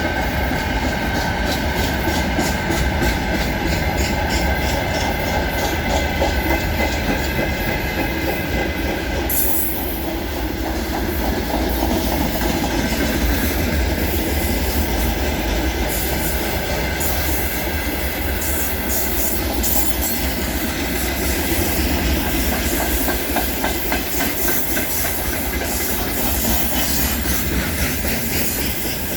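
Freight train wagons rolling past at speed, steel wheels clacking steadily over the rail joints, with a thin squeal from the wheels.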